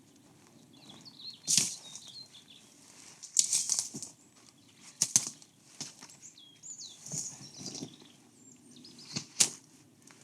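Several short, sharp rustling or scraping noises at irregular intervals, with small birds chirping faintly in the background.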